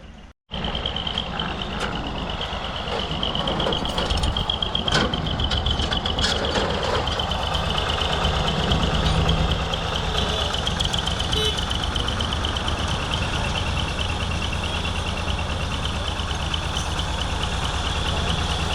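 Tractor engine running steadily and hard, with a low, even throb and a thin steady high whine. A couple of sharp clicks come around the middle.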